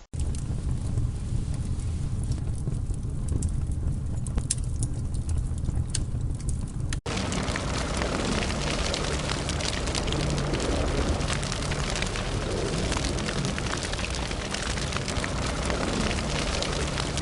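Fire burning: a steady low rumble with scattered crackles, which breaks off briefly about seven seconds in and gives way to denser, louder crackling.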